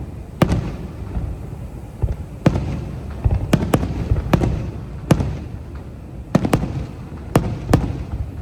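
Aerial fireworks bursting: about ten sharp bangs at uneven intervals, some in quick pairs, over a continuous low rumble of further explosions.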